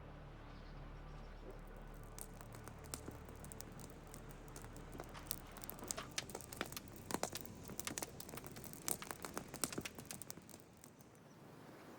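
Irregular sharp crackling and crunching clicks, coming thickest in the middle and thinning out near the end.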